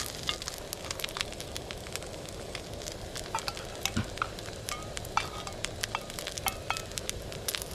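Sizzling and crackling of food cooking over heat: a steady low hiss with many small sharp pops.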